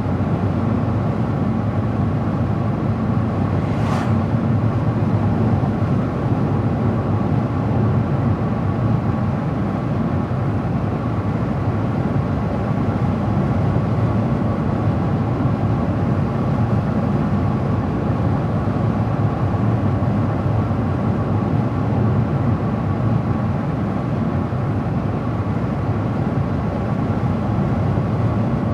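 A car driving at a steady speed: an even rumble of tyres on the road mixed with engine noise. One brief sharp click comes about four seconds in.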